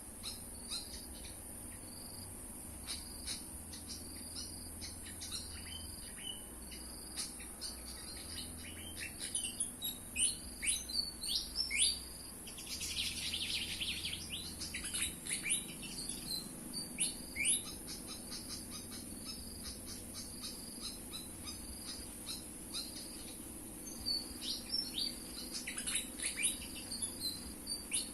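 Pied fantail calls: clusters of quick, sharp, downward-sweeping chirps, with a short harsh chattering burst a little before the middle. A steady high insect drone runs underneath.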